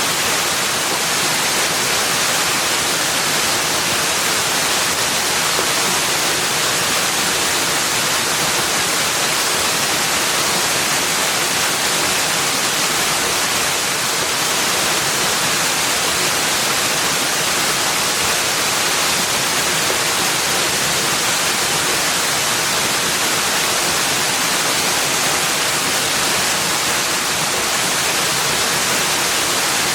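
Steady rushing of running water, an even hiss that does not change, with no birds or other distinct sounds.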